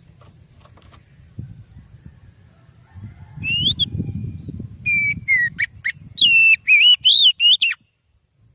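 Oriental magpie-robin (kacer) singing: a run of loud, clear whistled phrases with quick up-and-down pitch slides, starting a few seconds in and breaking off abruptly near the end, over a low background rumble.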